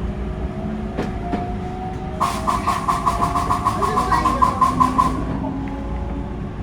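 Rapid, evenly repeated "ka-ka-ka" clattering from under the floor of a JR West 223 series 1000 subseries train, about six clacks a second, over the steady hum of the train. It starts about two seconds in and cuts off about three seconds later. It is an abnormal noise that the uploader takes for the air compressor, cause uncertain.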